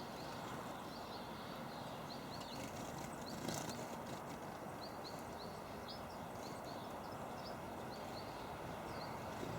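Small garden birds at a feeder giving short, high chirps again and again, over a steady hiss of outdoor background noise, with a brief click about three and a half seconds in.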